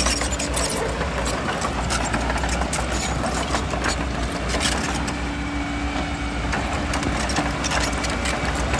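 Bulldozer's diesel engine running steadily, with many sharp clicks and clatters throughout.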